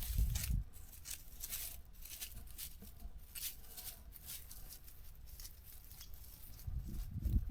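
A hiker's footsteps crunching on a dry trail, an uneven run of about two to three steps a second, with low rumbles on the microphone at the start and near the end.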